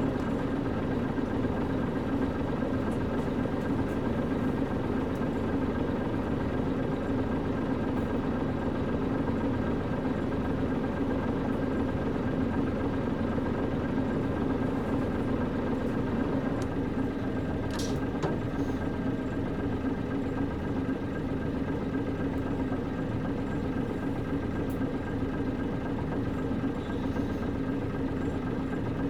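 Cabin sound of a KC-UA460LSN one-step bus with a PG6 diesel engine, the engine running at a steady, unchanging pitch. A brief click about 18 seconds in.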